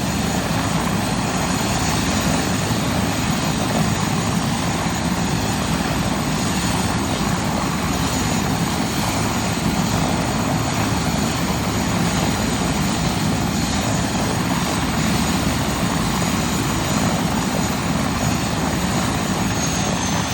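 UH-72 Lakota helicopter running steadily on the ground, its twin turboshaft engines and rotor giving a constant heavy rush with a thin high turbine whine held at one pitch.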